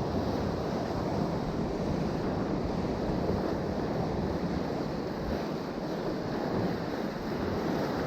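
Steady rushing of surf and wind buffeting the microphone.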